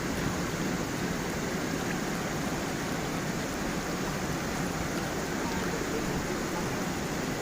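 Stream water flowing and tumbling over stones, a steady burbling rush with small gurgles and splashes throughout.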